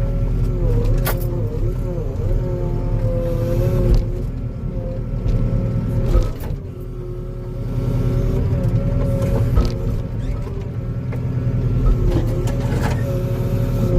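Diesel engine of compact earthmoving equipment running steadily, with a hydraulic whine that wavers in pitch as the controls are worked. A few sharp knocks or cracks come through, about a second in, near the middle and a little later.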